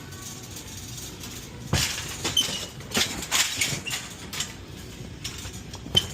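Metal delivery carts and equipment clattering and clanking as they are handled, with a run of sharp knocks: the loudest about two seconds in, several more a second later, and another just before the end.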